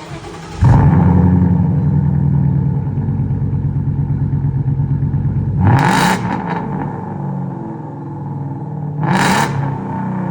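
Ford Mustang exhaust through newly fitted Carven R mufflers and tips: the engine starts about half a second in and runs at a steady fast idle, then drops to a lower idle. Two short revs of the throttle come about six and nine seconds in.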